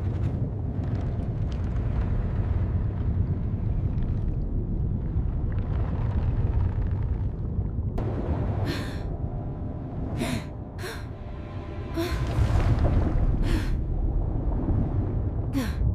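Steady low rumble, with several short rushing noises in the second half and one more near the end.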